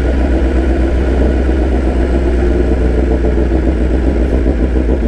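BMW S1000RR inline-four sport bike engine running at low, steady revs.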